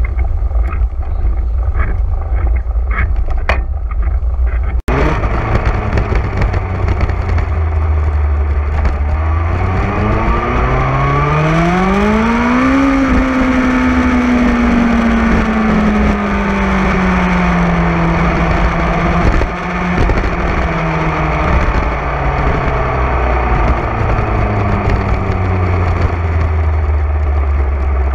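Motorcycle engine running under way over a heavy low rumble. The engine pitch rises for a few seconds about ten seconds in, then slowly falls as it comes off the throttle.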